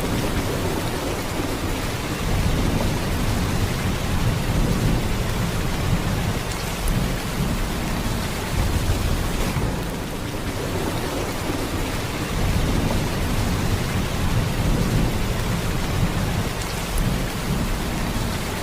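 Heavy rain in a steady downpour, a dense hiss of rain on surfaces over a deep low rumble that swells and eases.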